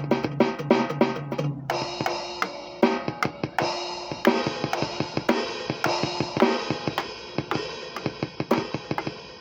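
Drum kit played in a steady beat of kick and snare hits. About two seconds in, the pattern changes and cymbals ring in over the hits.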